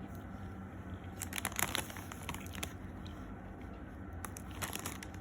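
Crisp crinkling and crunching in short clusters, from a fried chicken burger and its paper wrapper being handled close to the microphone. There is a burst about a second in, a brief one in the middle, and a denser run near the end.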